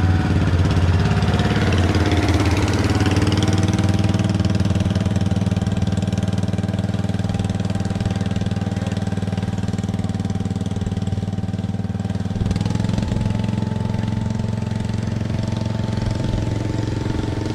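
Vehicle engine running at a steady speed. About twelve seconds in its pitch steps up a little and holds there.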